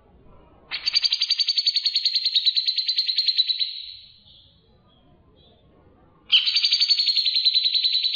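A songbird gives two long, rapid trills of about three seconds each, at well over ten notes a second. The second trill starts about six seconds in.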